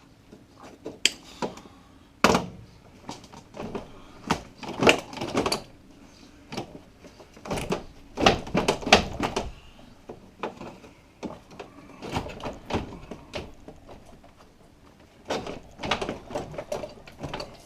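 Irregular metal knocks, clanks and rattles of hand tools and loose parts being worked on in a car's engine bay, in short clusters with the loudest strikes about two seconds in and around eight to nine seconds in.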